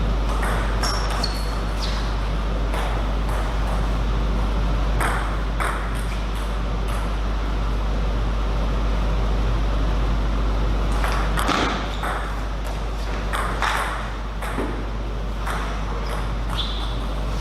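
Table tennis ball knocking off the table and bats during play, sharp clicks at irregular spacing in several bunches with short gaps between. A steady low hum runs underneath.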